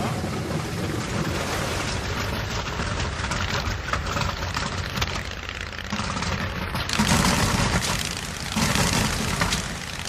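B-29 Superfortress Wright R-3350 radial engine running at low RPM during a cold-weather warm-up, waiting for the oil temperature to come up. It is a dense, rough rumble that grows louder about seven seconds in.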